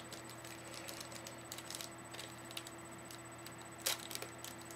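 Small plastic clicks and light handling noises of a small remote control being opened and handled, with one sharper click about four seconds in, over a faint steady hum.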